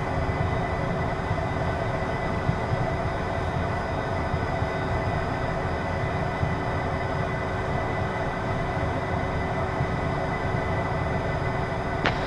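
Cockpit noise of a Beechcraft Premier 1's twin Williams FJ44 turbofans running at idle while the jet waits on the runway: a steady low rumble with several constant whine tones.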